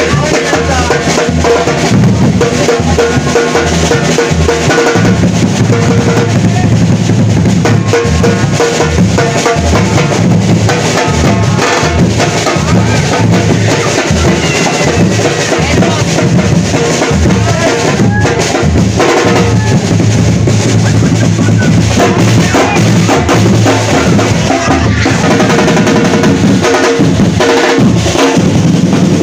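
Live drumming by a street drum group, snare drums among them, played loud and without pause.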